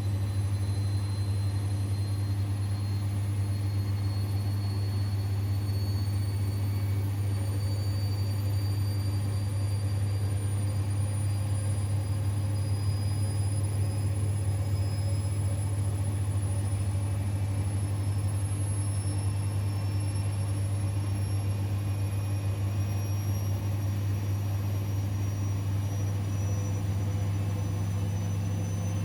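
Siemens Extraklasse XLS 140 A washing machine's drum spinning, with a steady low hum under a motor whine that rises slowly and evenly in pitch as the drum gathers speed.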